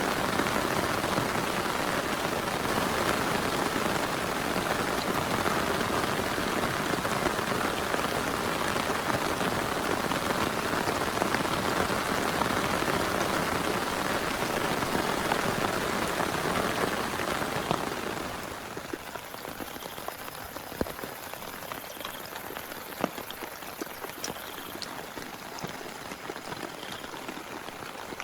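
Heavy rain falling steadily; about two-thirds of the way through it drops off to a lighter patter of separate drops.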